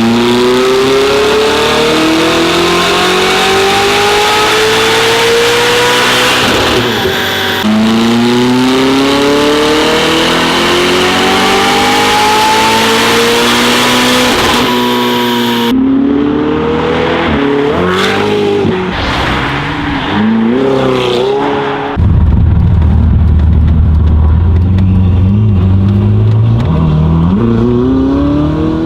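Ferrari 488's twin-turbo V8 through a Fabspeed charge-pipe, sport-cat and X-pipe exhaust, making two full-throttle dyno pulls, its pitch climbing steadily through each. Then, driving, quick revs rising and falling through gear changes, followed by a louder low rumble that climbs again near the end.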